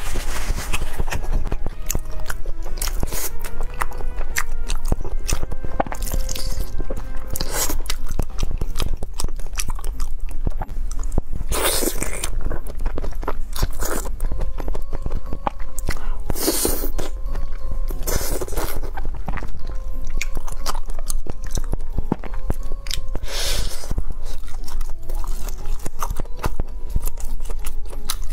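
Close-miked ASMR eating sounds of spicy fried skewers: wet chewing and crunching, with a handful of louder crunchy bites spread through, over background music.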